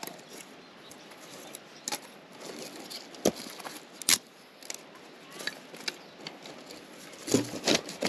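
Irregular light clicks and knocks over a low hiss, like small objects being handled.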